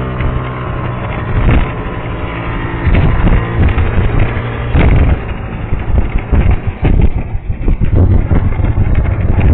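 Vehicle running on a punctured tyre: a low engine and road hum under repeated, irregular knocks and thumps, the abnormal noise that comes from the puncture.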